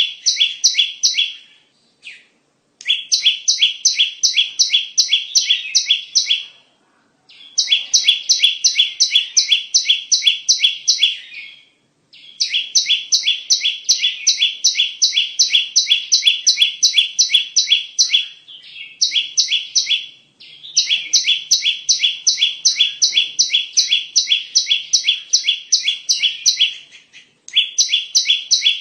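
Bar-winged prinia (ciblek) calling: long rapid strings of sharp, evenly repeated high chirps, broken by short pauses every few seconds. This is a lure recording used to call in and attract ciblek.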